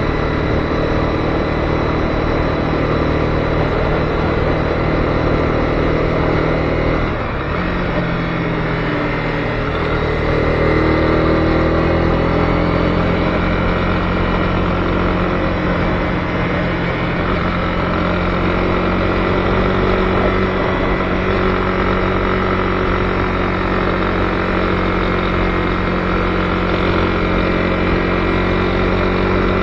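Honda CB250R's single-cylinder engine running under way, with a steady hiss of wind and road noise. About seven seconds in the revs drop, and they climb again around ten seconds in before settling into a steady pull.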